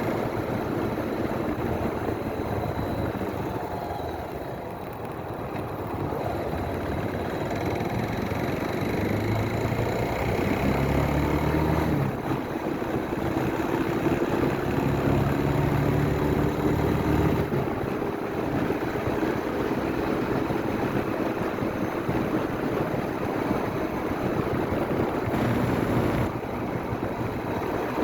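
Motorcycle engine running under way, with steady road and wind noise. Its engine tone rises for a while in the middle, then settles again.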